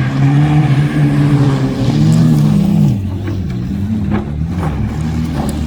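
Rallycross car engine running hard at high revs, the pitch wavering and then falling about halfway through as the revs drop, with a few sharp ticks in the second half.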